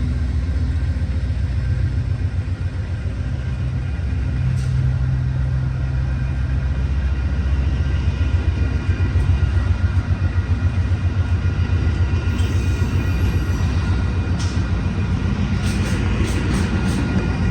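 Diesel-hauled Amtrak passenger train passing close by: a steady low rumble of locomotive engine and wheels, turning into a fast rhythmic clatter of wheels from about eight seconds in, with sharp clicks near the end.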